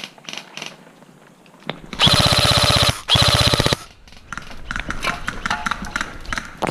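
Airsoft rifle firing two full-auto bursts, the first about a second long and the second a little shorter, each a rapid, even rattle of shots. Afterwards, softer scattered clicks and the rustle of footsteps and gear on gravel.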